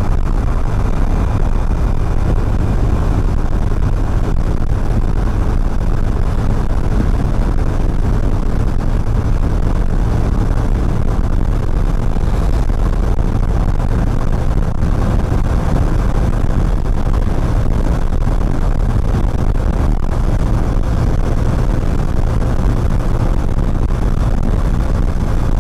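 Steady riding noise from a moving motorcycle: wind rushing over the microphone, with the engine and road noise underneath.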